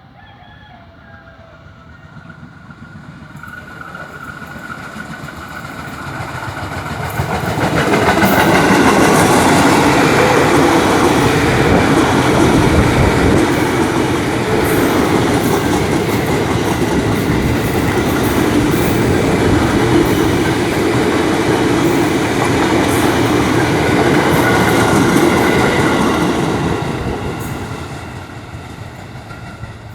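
Indonesian KRL electric commuter train going past: the sound builds over the first eight seconds, stays loud and dense for about eighteen seconds as the train runs by, then fades away near the end.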